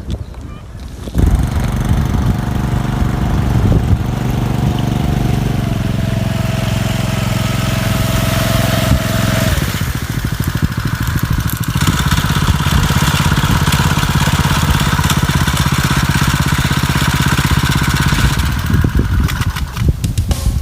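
A fishing boat's engine running steadily, cutting in abruptly about a second in. Its tone changes about halfway through and it eases off shortly before the end.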